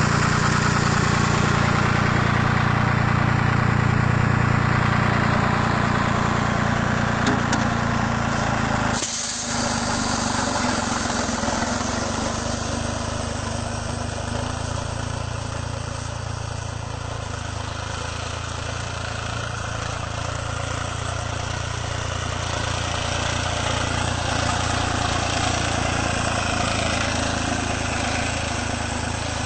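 Tractor diesel engine running steadily, as when driving a PTO-powered fertiliser spreader. It breaks off briefly about nine seconds in and carries on a little quieter.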